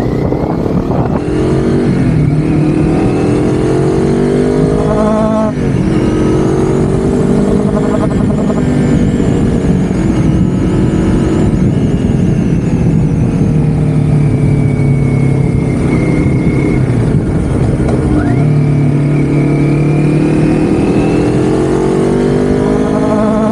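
Motorcycle engine running under way, its pitch climbing as it accelerates and dropping sharply at a gear change about five seconds in. It runs fairly level for a while, dips again near eighteen seconds and climbs once more.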